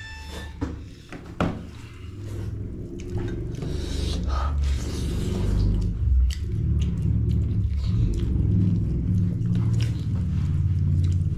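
Person chewing a mouthful of food close to the microphone, with small wet clicks and a low rumble that grows louder about two seconds in.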